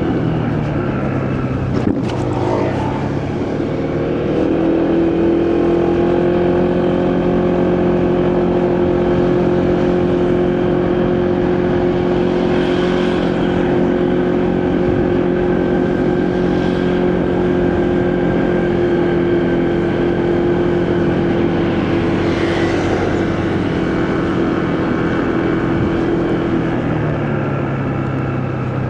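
Motorcycle engine under way with wind rushing past: the engine pitch climbs in the first few seconds, holds steady while cruising, then drops as the throttle eases near the end.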